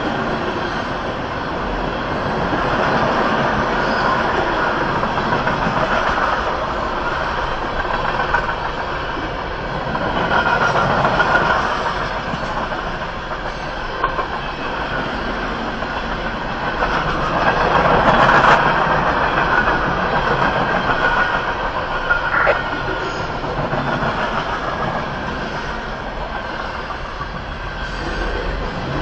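Continuous mechanical rumbling noise of a moving vehicle, swelling louder a few times, with a short sharp click about 22 seconds in.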